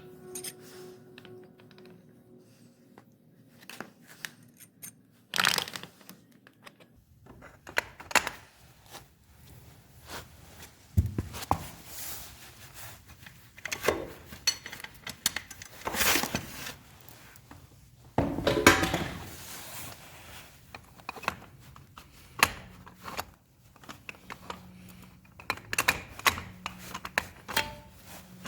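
Irregular knocks, clatters and short scraping or rustling bursts from parts being handled and worked on at a workbench, with faint background music.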